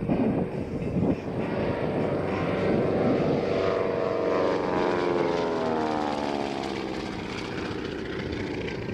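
Beech C-45 Expeditor's twin Pratt & Whitney R-985 Wasp Junior radial engines and propellers running as the plane passes, the pitch falling as it goes by about midway through.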